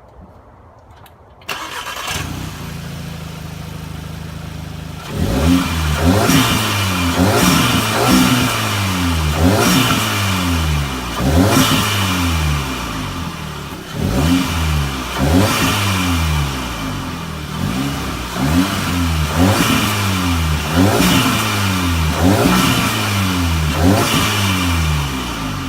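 Audi S3's turbocharged four-cylinder engine, breathing through an AFE Pro 5R cold air intake, starts about a second and a half in and idles briefly. It is then revved again and again in quick blips about every second and a half, each rising in pitch and falling back.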